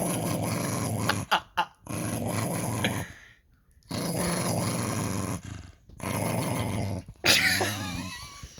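A dog 'talking': repeated vocal bouts of about a second each, separated by brief pauses. Near the end comes a louder, higher call that wavers up and down in pitch.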